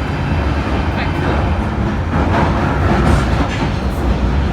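London Underground train running, a steady loud rumble with rattling heard from inside the carriage.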